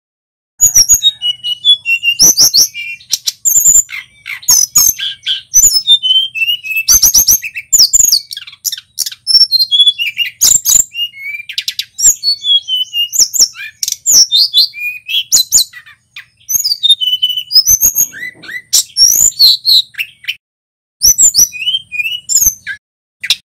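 Male tledekan gunung singing energetically: rapid, varied runs of high chirps, trills and whistled notes, broken by a couple of brief pauses.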